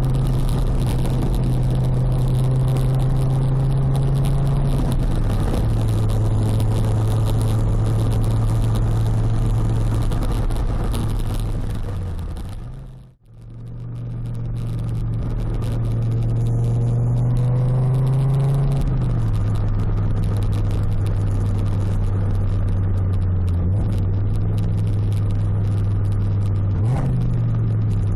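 Fiat Coupé 20v's naturally aspirated inline five-cylinder engine sounding through a custom stainless exhaust (Cybox line with a SportCat and flame arrester), droning steadily at cruising revs while driving. The pitch steps down twice, the sound fades out and back in about halfway through, and near the end it dips and then climbs steeply as the engine revs up.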